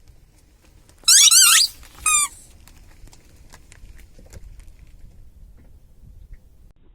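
Rubber squeaky toy squeaking twice as it is squashed: a long, wavering high squeak followed by a shorter one.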